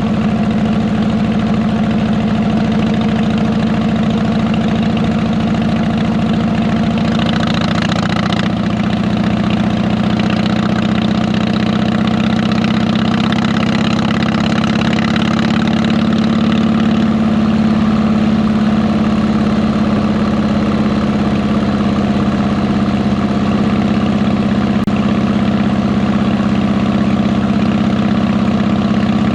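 Harley-Davidson Electra Glide Ultra Classic V-twin engine running at a steady, unchanging pitch through fishtail mufflers. A rush of higher noise joins it about seven seconds in and fades out after about ten seconds.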